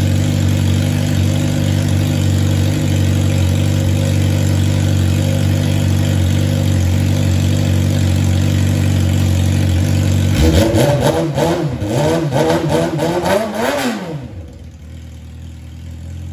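Yamaha R6 inline-four sportbike engine running with no muffler fitted, idling steadily. About ten seconds in it is blipped up and down several times, then shut off near the end.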